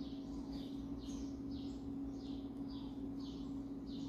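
Faint bird chirping in the background, short high chirps repeating about twice a second, over a steady low hum.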